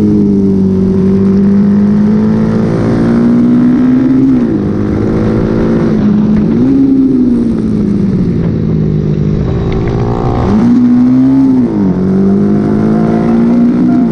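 Honda XL motorcycle engine running hard on a race track. The engine note holds steady, then climbs and drops back about three times as the throttle is worked.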